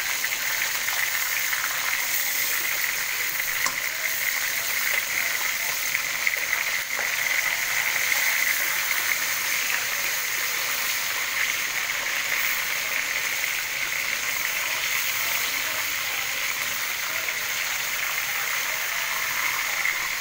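Marinated chicken pieces sizzling steadily as they shallow-fry in hot oil in a karahi.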